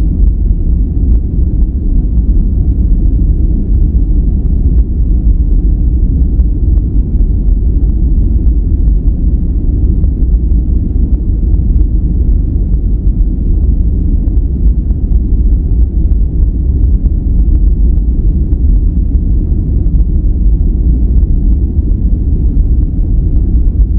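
Steady relaxation noise track: an unbroken, deep, even rumble with little hiss, its energy weighted to the low end, closer to brown noise than to white.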